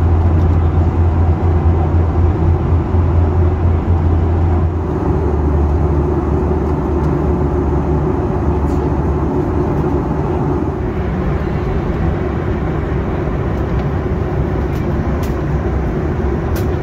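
Steady cabin noise of a Boeing 737 in flight: engine and airflow drone with a strong low hum that shifts slightly about five seconds in.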